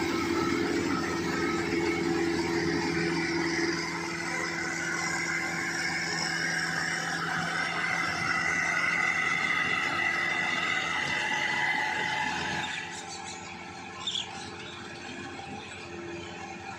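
Rice harvesting machine running steadily with a low hum and a high whine, becoming quieter about thirteen seconds in, with a brief knock soon after.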